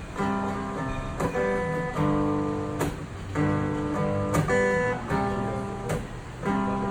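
Acoustic guitar strumming chords, a new chord struck about once a second, as the introduction to a song.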